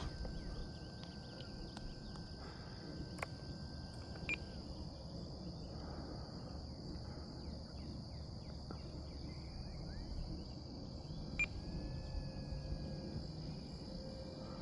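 Steady high-pitched insect chorus over a low outdoor rumble, with a few sharp clicks. A faint steady motor whine from the electric RC plane in flight stops about four seconds in, and faint rising whines come back near the end.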